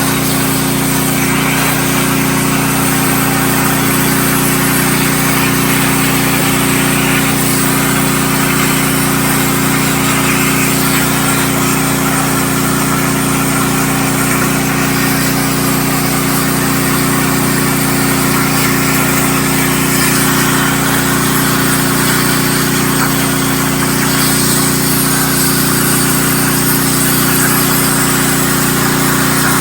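CNC plasma cutter's arc and air hissing steadily as it cuts thin hot-rolled steel plate, over the steady drone of a portable generator engine.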